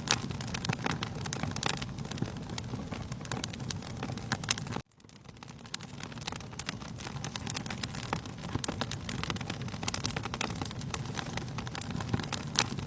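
Wood fire crackling and popping in a fireplace: a steady hiss with many sharp irregular pops. The sound cuts out abruptly about five seconds in and fades back up within a second or so.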